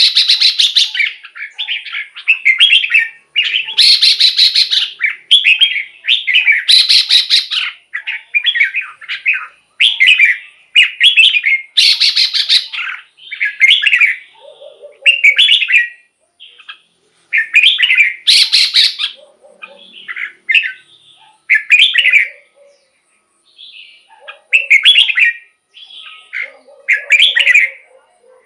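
Red-whiskered bulbul singing: a steady run of short, loud whistled phrases, one every second or two, with several harsher, scratchier phrases among them.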